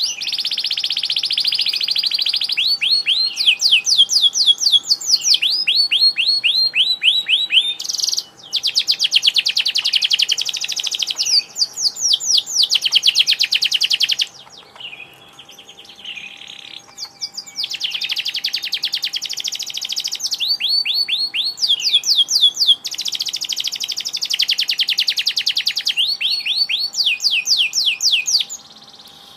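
Domestic canary singing in full voice: long phrases of fast rolled trills and rapid repeated sweeping notes, with a short quieter break about halfway through. A faint steady hum runs underneath.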